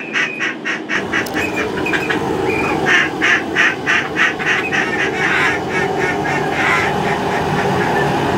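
Rapid runs of duck quacks, about three or four a second, over a steady background noise that fills out about a second in.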